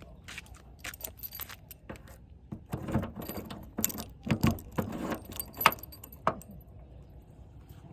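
A string of irregular clicks, knocks and light metallic rattles, as of things being handled, loudest about five and a half seconds in, over a faint low background.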